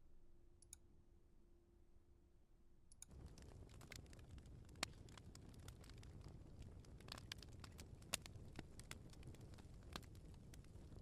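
Faint wood fire crackling, with irregular sharp pops and clicks over a low hiss. It starts about three seconds in, after near silence with a faint steady hum.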